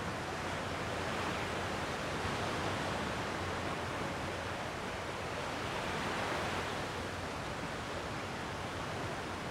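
Gentle sea waves washing ashore: a steady rush of surf that swells slightly twice.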